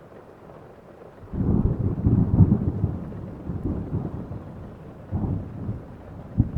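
Thunder over steady rain: a long, low rolling rumble breaks in about a second in, swells and rolls on with further peaks, and a sharper clap comes near the end.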